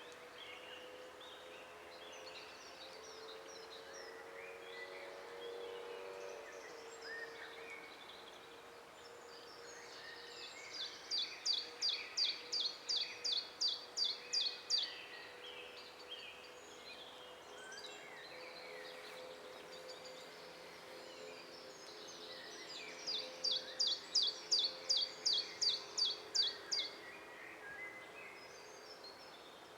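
Several songbirds singing in a forest, one of them twice giving a loud series of about a dozen quick repeated high notes, roughly three a second, over a faint low steady hum.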